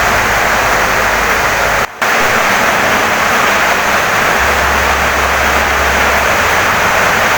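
Heavy rain pouring steadily on a wooden house, an even dense hiss, with a brief dip in level about two seconds in.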